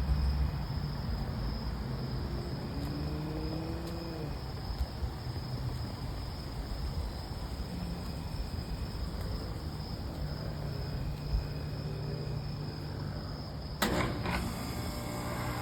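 Steady outdoor ambience: a low rumble under a steady high, insect-like drone, with a sharp click near the end.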